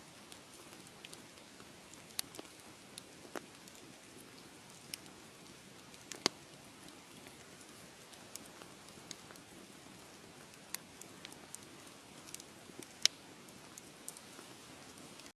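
Wood fire crackling in a fireplace: irregular sharp pops and snaps over a low, steady hiss, with the loudest pops about six and thirteen seconds in.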